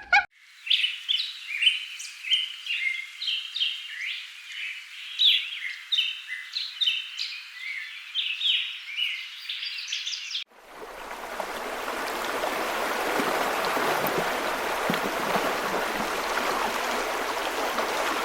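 Small birds chirping in quick, overlapping calls for about ten seconds. Then a sudden change to the steady rush of a flowing stream, which swells up over a second and then holds.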